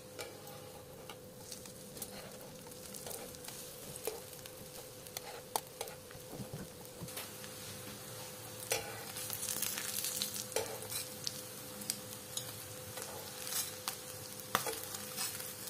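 Breaded bread toasts sizzling in shallow oil in a nonstick frying pan, with scattered clicks and scrapes of a metal spatula as the pieces are turned and pressed. The sizzle grows louder for a couple of seconds about ten seconds in.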